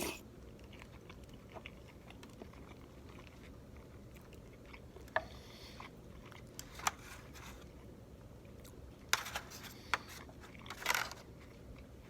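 Close-up mouth sounds of someone eating chicken momos: chewing and biting, with scattered short wet clicks and smacks, several of them in the second half.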